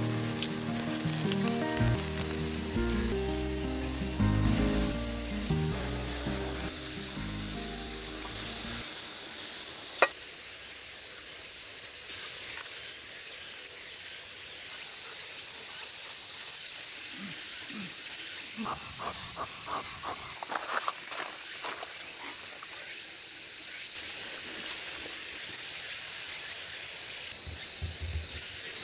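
Steady hiss, with background music over it for roughly the first nine seconds and one sharp click about ten seconds in.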